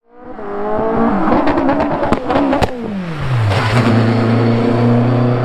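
Racing car engine revving hard with several sharp cracks in the middle, then the engine note falls and settles into a steady low drone.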